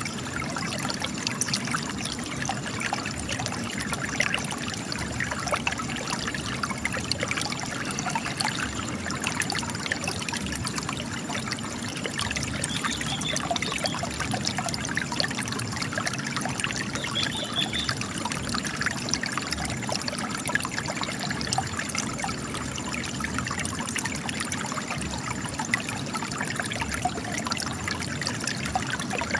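Spring water trickling and splashing steadily as it gushes from cracks in rock, with many small splashes.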